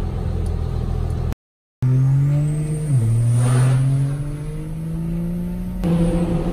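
Diesel truck engines running, with a brief dead cut in the sound about a second and a half in. After it an engine's pitch dips, then climbs steadily as it revs up, with a thin high whine over it.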